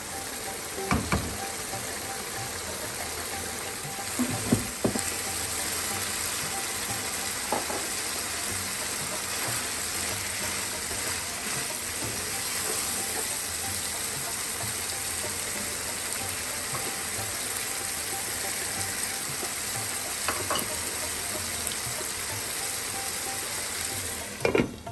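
Minced meat curry sizzling steadily in a non-stick pan, with a wooden spatula knocking against the pan a few times. Near the end a glass lid clacks twice as it is set on the pan.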